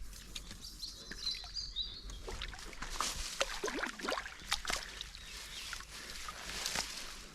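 Water splashing and sloshing in irregular bursts, busiest a few seconds in, as a freshly netted carp thrashes in the landing net at the lake's edge.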